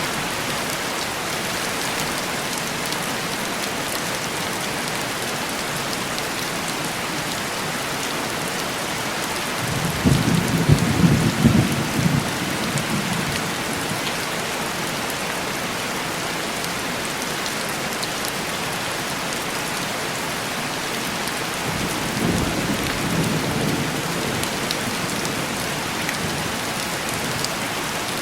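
Heavy rain falling steadily on window glass, with low thunder rumbling twice: a louder roll about ten seconds in and a fainter one about two-thirds of the way through.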